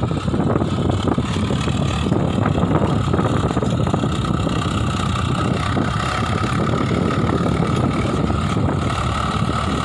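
Swaraj 744 FE tractor's three-cylinder diesel engine running steadily, with a steady high whine above the engine note.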